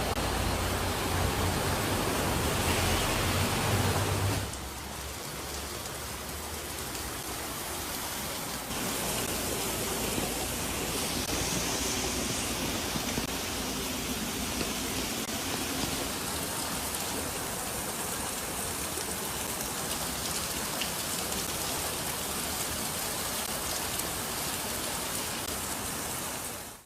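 Steady hiss of heavy rain and running water. It changes abruptly about four and nine seconds in, and the first four seconds also carry a low rumble.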